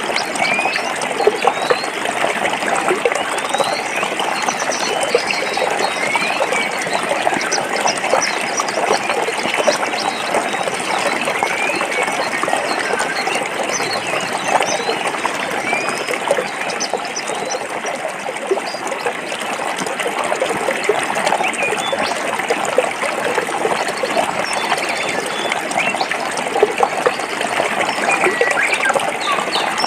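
Forest stream flowing over rocks: a steady, even rush of water with small splashes and gurgles through it.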